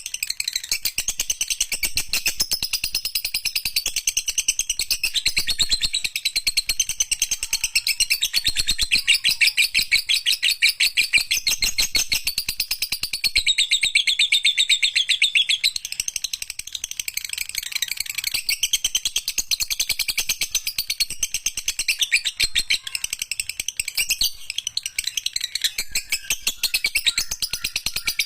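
Lovebird in a long, unbroken 'ngekek' (ekek panjang): a very rapid, high-pitched chattering trill that runs on without pause. It eases slightly for a moment about two-thirds of the way in.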